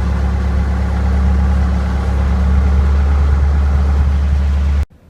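Loader's engine running steadily with a deep hum, cutting off suddenly near the end.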